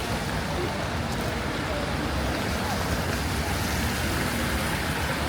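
Steady wash of rain and road traffic on a wet city street, with faint voices of passers-by underneath.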